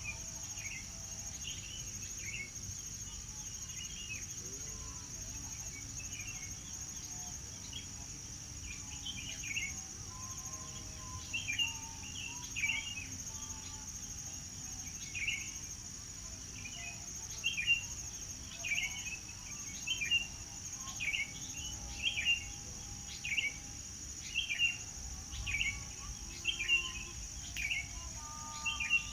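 Birds chirping in short calls over a steady high-pitched insect drone; in the second half one bird repeats a short call about once a second.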